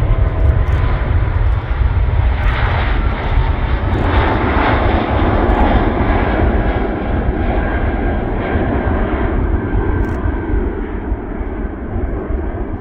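Airbus A380 jet engines at takeoff power: a steady, loud roar with a heavy deep rumble, easing a little near the end.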